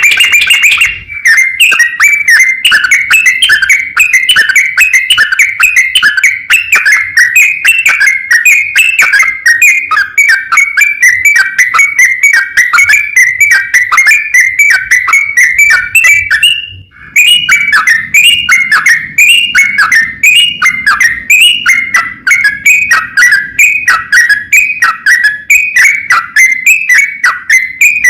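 Sooty-headed bulbul (trucukan) singing a long, rapid run of loud whistled notes, several a second, many sliding down in pitch, with one short pause about two-thirds of the way through. This is the long 'ropel' song used as a lure to provoke rival bulbuls into answering.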